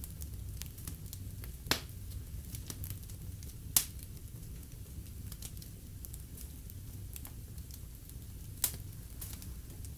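Wood fire crackling in a fireplace: a steady low rumble with scattered small ticks, and three sharp loud pops, near two seconds, four seconds and nine seconds in.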